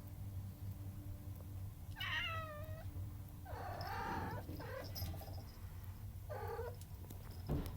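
Domestic cat meowing several times in separate calls, the first falling in pitch, begging for food. A sharp knock near the end.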